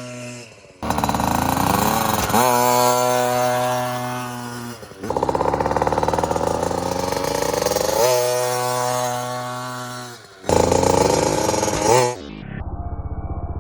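KTM dirt bike engine revving hard, its pitch rising and dropping again and again as it pulls away through the gears. The sound is a run of short pieces, each starting and stopping abruptly, with a quieter steady engine sound near the end.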